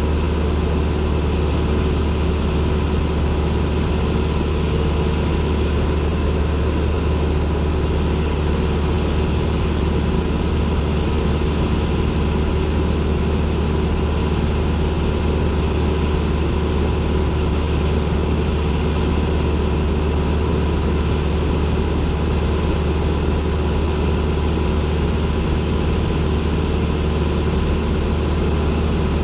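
Cessna 172N's four-cylinder Lycoming engine and propeller running steadily, a constant loud drone heard from inside the cockpit.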